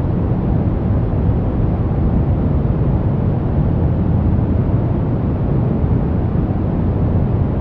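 Brown noise: a steady, even rumbling hiss weighted toward the low end, unchanging throughout.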